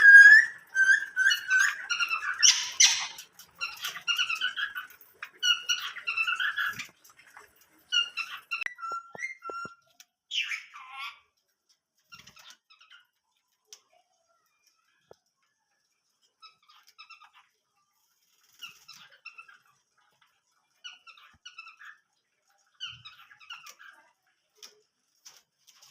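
Small cage birds chirping in short, repeated calls, dense and louder for the first ten seconds or so, then fainter and more scattered.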